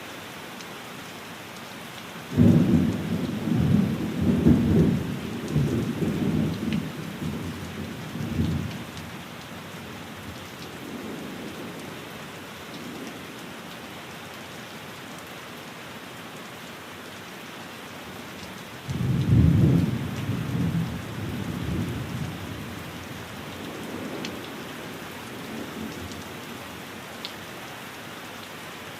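Steady rain with two rolls of thunder: the first breaks suddenly about two seconds in, the second about two-thirds of the way through. Each is a low rumble that lasts several seconds and fades away.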